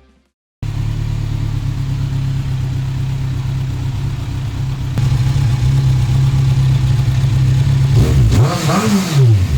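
Kawasaki Z1000SX's inline-four engine idling steadily through a de-cat 4-into-2 Black Widow full exhaust with carbon silencers. Near the end it is revved once, rising and falling in pitch.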